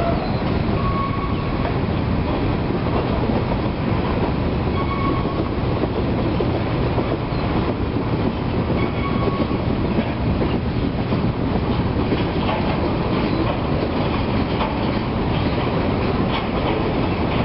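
Freight train cars (covered hoppers, boxcars and tank cars) rolling past steadily, their wheels clattering over the rails, with a faint brief squeal every few seconds.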